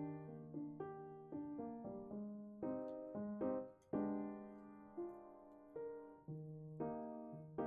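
Gentle background piano music: a slow melody over held chords, each note struck and left to fade.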